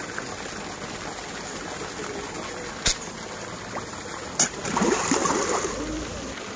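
Steady rush of a flowing river, with two sharp clicks about three and four and a half seconds in.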